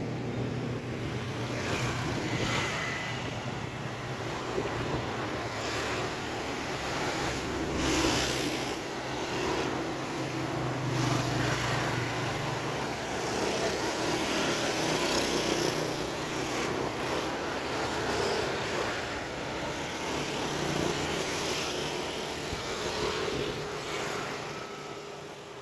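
Road traffic: vehicle engines running and passing by, with a steady low hum, fading away near the end.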